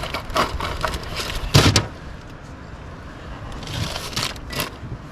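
Scattered knocks and clatter of gear and a caught fish being handled in a fishing boat, the loudest about a second and a half in and another short one near the end.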